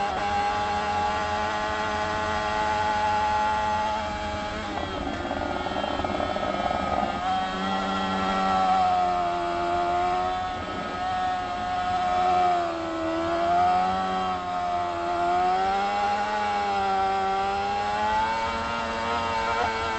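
Motorcycle engine running hard at high revs under way. Its pitch holds steady, breaks up briefly about a quarter of the way in, then returns and rises and falls gently with the throttle.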